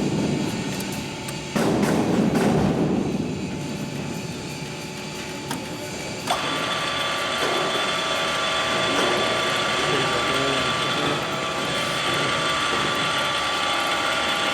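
Bolton ZX45A gear-drive milling machine running, a steady mechanical gear noise. It gets louder about a second and a half in, and about six seconds in steady high whining tones come in and hold.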